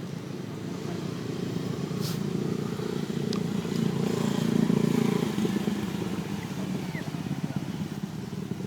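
A small engine running steadily with a fast low pulse, growing louder toward the middle and easing off again. There are a few faint sharp clicks.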